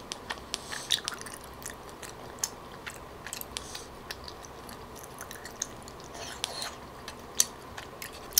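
Close-miked chewing of a mouthful of tteokbokki rice cakes: wet mouth sounds and lip smacks with many sharp, irregular clicks.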